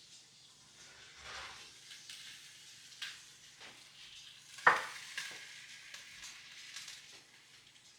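Food sizzling in a pan while it is stirred, with scattered clicks of the utensil and one sharp loud knock about halfway through.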